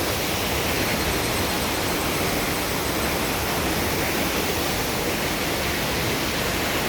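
Steady roar of rushing water, a waterfall or fast mountain stream, even and unbroken.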